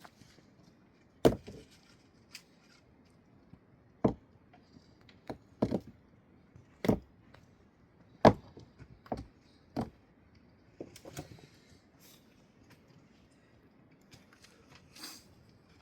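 Irregular sharp knocks and clacks of hard objects striking each other, about a dozen spread over the stretch at gaps of one to two seconds, the loudest a little past one second and eight seconds in.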